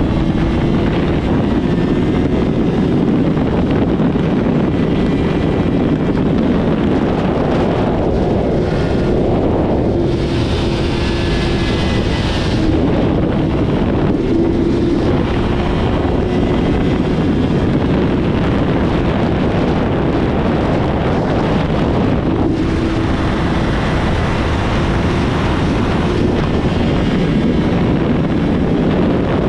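Honda CBR600RR inline-four engine running at a steady, high, slightly wavering pitch while riding, under heavy wind noise on the microphone.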